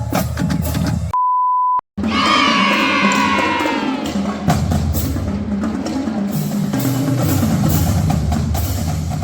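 Drum-heavy music. About a second in it is cut by a short, steady single-tone censor bleep and a moment of silence, then the drums resume.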